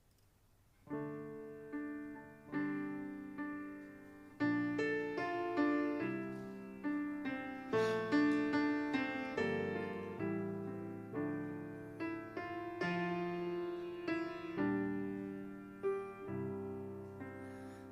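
Solo piano playing a slow introduction: chords struck one after another and left to ring and fade, starting about a second in.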